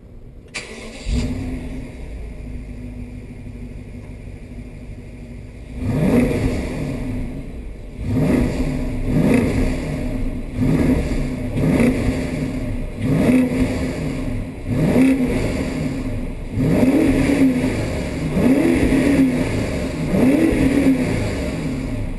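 BMW F10 550i twin-turbo V8 exhaust through a custom X-pipe and stock mufflers. The engine comes on suddenly about a second in and idles, then from about six seconds is blipped about ten times, each rev rising and falling, roughly every one and a half to two seconds.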